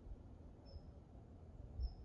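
A small bird gives short, high chirps about once a second over a faint, uneven low rumble.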